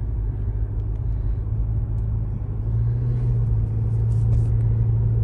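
Car running, a steady low rumble that grows a little louder about halfway through.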